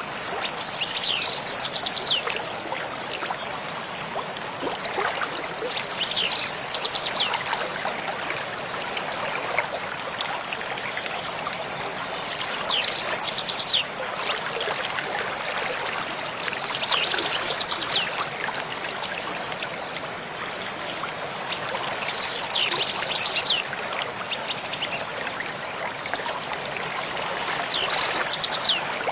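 Mountain stream flowing steadily over rocks, with a songbird repeating the same short, high, falling song phrase about every five seconds, six times.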